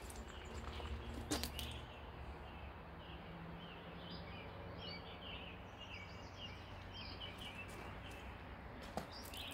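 Small birds chirping in short repeated calls over a low, steady background hum, with a single sharp knock about a second in.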